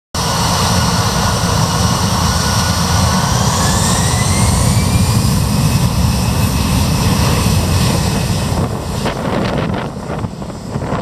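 Airbus A320's CFM56 jet engines running loud, a deep rumble under a whine that climbs in pitch between about three and six seconds in. After about nine seconds the engine sound fades and wind buffets the microphone.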